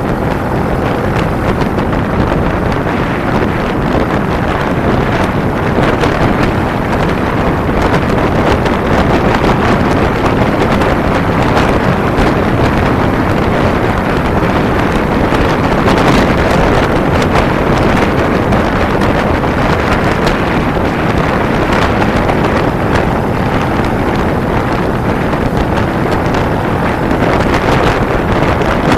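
Steady, loud wind rushing over the microphone of a camera riding along on a Kawasaki Ninja 250 at speed, with the motorcycle's engine and road noise mixed into it.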